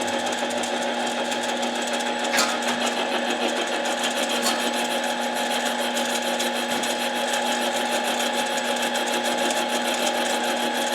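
Harbor Freight mini lathe motor running steadily with a constant hum, spinning an impact wrench part while its runout is checked with a dial indicator. One sharp click a little over two seconds in.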